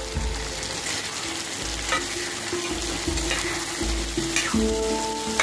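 Chicken pieces with capsicum and onion sizzling in oil in a wok while being stirred, with a few short scrapes of the spatula against the pan, about two seconds in and again near the end.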